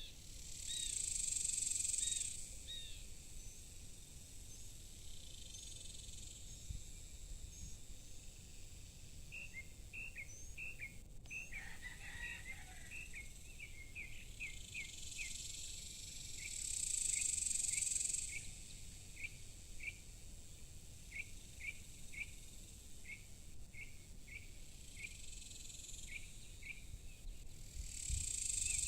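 Evening insects calling: a high-pitched drone swells up for about two seconds three times, roughly every fourteen seconds. From about ten seconds in, a steady series of short, quick chirps repeats over it.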